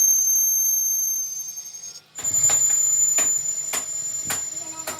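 A steady high-pitched whine; then, after a brief break about two seconds in, sharp knocks about two a second over another steady high whine.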